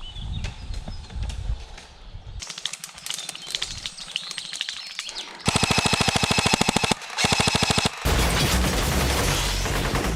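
Electric airsoft rifle firing on full auto: scattered pops at first, then a long rapid rattling burst about five and a half seconds in, a short burst right after it, and sustained rapid fire from about eight seconds in.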